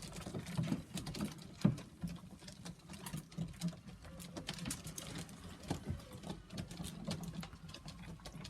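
Pigeons pecking at dried maple peas and beans in their feed pots: many quick, irregular clicks and taps.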